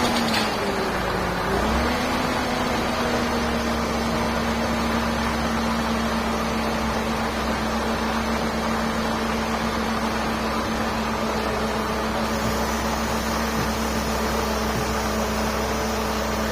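Mercedes-Benz car engine idling just after a start. Its speed dips at first, settles a little higher about two seconds in, and then runs steady with a constant hum.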